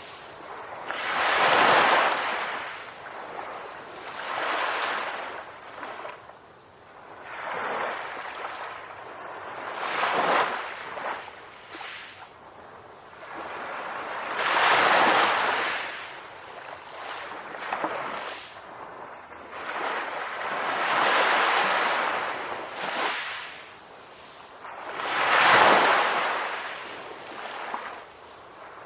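Ocean waves washing onto a beach, each swell of surf rising and falling away every few seconds, the biggest breaks about 2, 15 and 26 seconds in.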